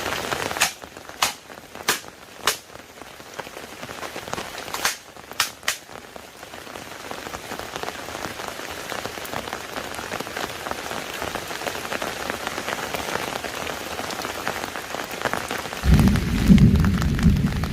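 Rain: first scattered heavy drops striking a hard surface with sharp single taps, then steady rain building into an even hiss. Near the end a loud low rumble sets in over the rain.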